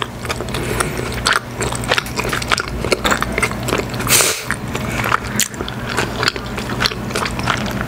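Close-miked mouth sounds of chewy spicy tteokbokki rice cakes being chewed: many small wet clicks and smacks over a steady low hum, with one short breath about four seconds in.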